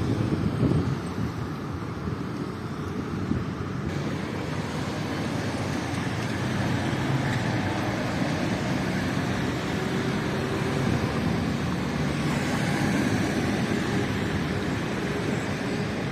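Hailstorm: a steady, dense rush of falling hail and wind, growing brighter about four seconds in.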